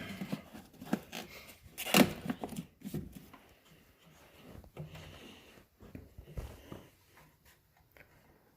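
Scattered clicks and knocks of hands handling door parts and tools on a truck door, with one sharp knock about two seconds in, then quieter fumbling.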